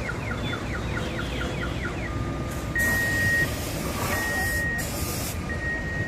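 An electronic vehicle alarm or reverse horn cycling through its tones. It gives a fast warbling chirp for about two seconds, then a steady beep repeating about every second and a half, over a low rumble. A loud hiss joins in from about three seconds and stops near five.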